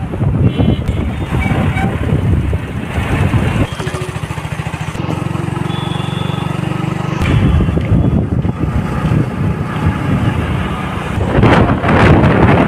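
Motorcycle engine running while riding, with road noise. For a few seconds in the middle the engine settles into a steady, evenly pulsing note before the louder riding noise comes back.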